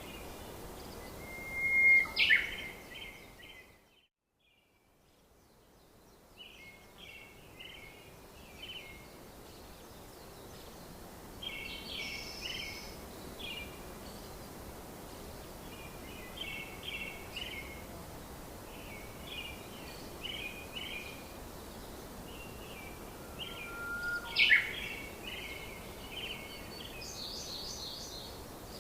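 Birds calling in tropical forest: a short cluster of chirps repeated every second or two over a soft background hiss, with two louder, sharper calls, about two seconds in and near the end. The sound drops away almost to silence for about a second around four seconds in.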